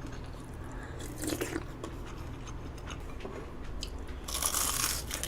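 Close-up eating sounds: a bite and chewing, with a longer, louder crunch about four seconds in.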